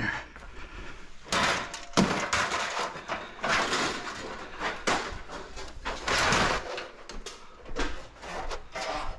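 Computer cases being shifted and slid around in a pile: a string of uneven scraping and sliding noises with a few knocks.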